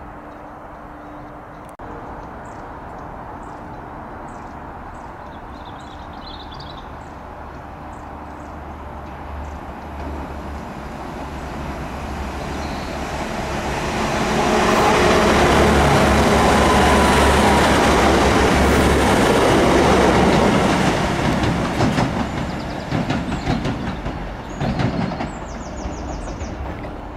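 TransPennine Express Class 185 diesel multiple unit running past close by. Its engine and wheel noise builds over several seconds to a loud peak, then fades, with the wheels clicking over rail joints near the end.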